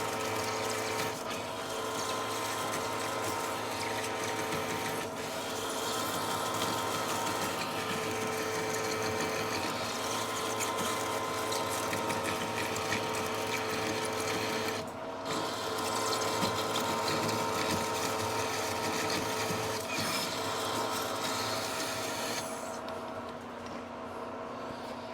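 Manual lathe running with a steady gear whine while its insert cuts the rough plasma-cut edge of a steel plate under hand feed, a harsh scraping cutting noise. The insert's tip is damaged by the plasma-cut scale. The cut pauses briefly about two-thirds of the way in and stops near the end, leaving the lathe running.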